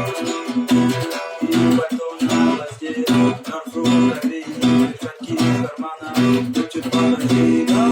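Acoustic guitar strummed in a steady, quick rhythm, several strokes a second, over ringing chords.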